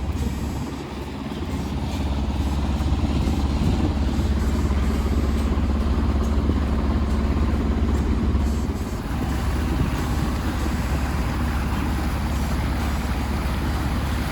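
Sailboat's engine running steadily under way, a continuous low hum, with wind and water rushing over the microphone that grows about nine seconds in.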